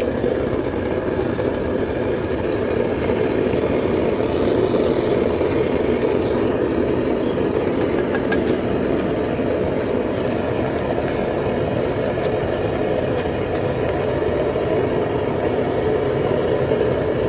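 Propane burner firing steadily into a homemade melting furnace, a continuous even roar with no breaks.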